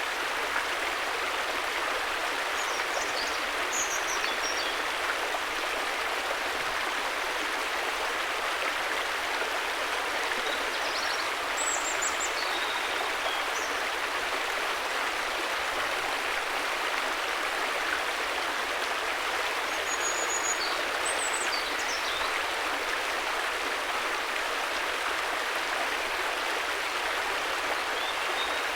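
River water rushing in a steady, unbroken flow, with a few faint high chirps now and then.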